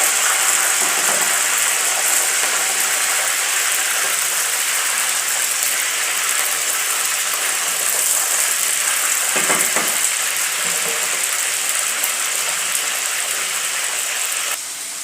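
Chicken pieces frying in hot oil: a steady, dense sizzle that drops abruptly in level near the end.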